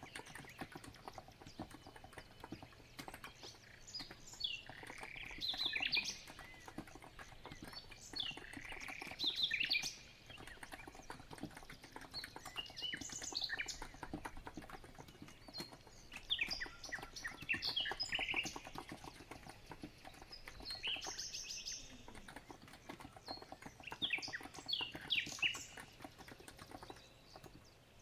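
Steady typing on a COX Empress electro-capacitive keyboard, a dense run of soft key clicks, with birds chirping in short phrases every few seconds.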